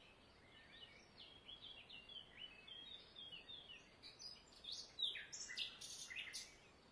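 Small birds chirping: a faint, rapid run of short high notes that grows busier and louder in the second half.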